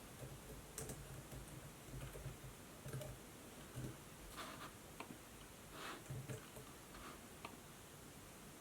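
Laptop keyboard typing: soft, irregular keystrokes, about a dozen over several seconds, with a faint steady hiss behind them.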